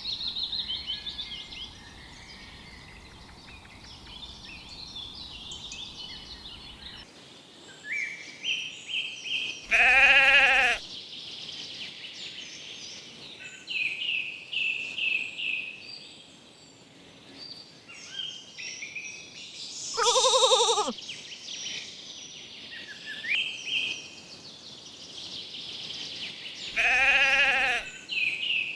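Sheep bleating three times, each bleat about a second long and wavering, spaced several seconds apart. Birds chirp in between.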